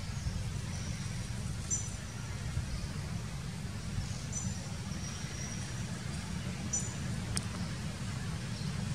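Outdoor woodland ambience: a steady low rumble underneath, with a short, high two-note bird call repeating about every two and a half seconds. There is a single sharp click near the end.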